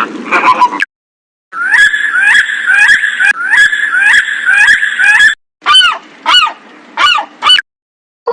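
Bird calls from a sound-effects compilation: a rapid series of short calls, about two or three a second, each with a quick upward hook, runs for about four seconds, then after a brief break a handful of separate, longer swooping calls from a different recording.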